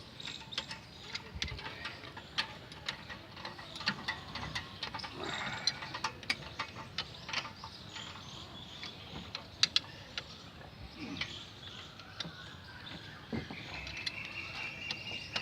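Irregular sharp metallic clicks and taps of hand tools and bolts against metal during gearbox mounting work on a car, about one to three a second.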